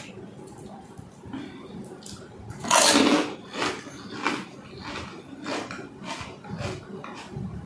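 Close-miked eating of panipuri: one loud bite into a crisp puri shell about three seconds in, then a run of short crunches about twice a second as it is chewed.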